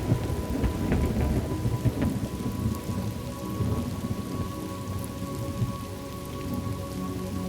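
Thunderstorm: a thunderclap right at the start rolls into a low rumble that fades over the next few seconds, over steady rain falling on a surface. A faint, steady drone of held tones sits underneath.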